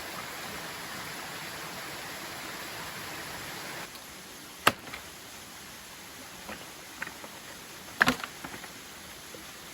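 Steady rush of a waterfall, dropping a little just under four seconds in. Then a few sharp knocks or snaps: one about halfway, a couple of fainter ones after it, and the loudest cluster about two seconds before the end.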